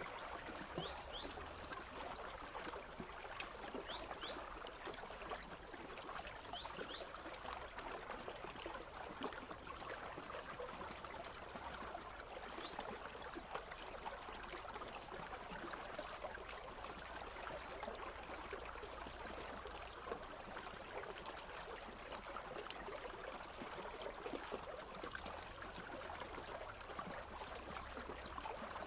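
Country stream flowing and babbling steadily over rocks. A few short, faint, high chirps come through in the first half.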